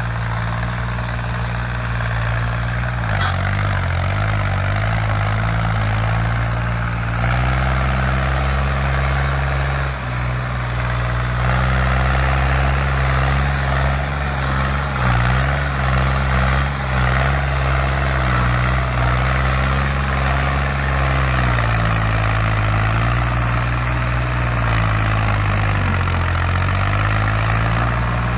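New Holland tractor's diesel engine running steadily, its pitch dipping and rising several times.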